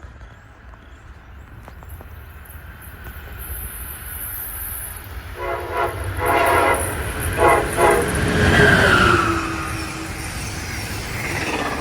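A steam locomotive's whistle sounds in several blasts over a low rumble that builds as the train draws near. It is loudest partway through, and a falling tone follows as the sound eases off.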